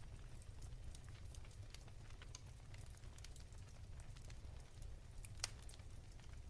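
Wood fire crackling softly in a fireplace: scattered small pops with a sharper one about five seconds in, over a faint low rumble.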